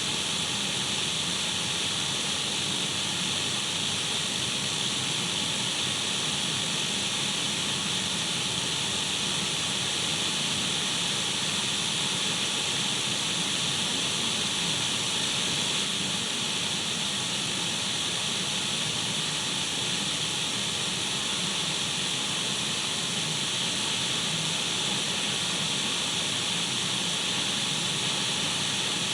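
Radio static from an untuned radio: a steady, unchanging hiss, brightest in its upper range.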